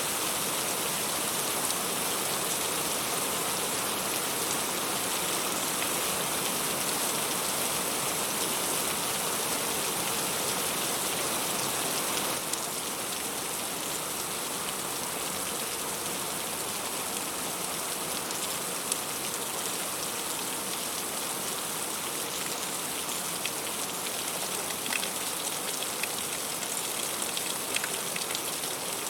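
Heavy rain falling steadily on fruit and leaves, a dense even hiss that drops slightly in level about twelve seconds in, with single drops ticking out more distinctly in the second half.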